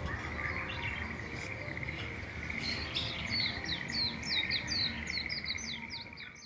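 Birdsong outdoors: a songbird repeating short, high, falling chirps about four times a second, starting about three seconds in, over a steady high trill that runs underneath. The sound cuts off abruptly at the end.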